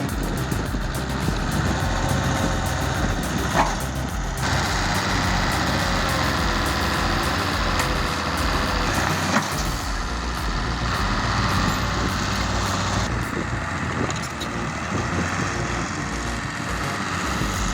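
Heavy construction machinery with its diesel engine running steadily, with a couple of sharp knocks, one about three and a half seconds in and one about nine seconds in.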